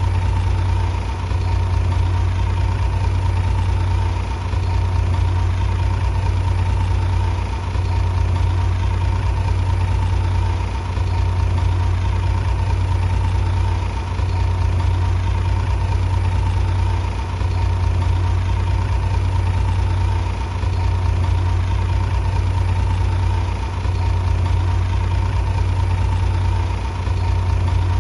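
Bulldozer's heavy diesel engine running steadily with a deep low hum, the level dipping briefly about every three seconds.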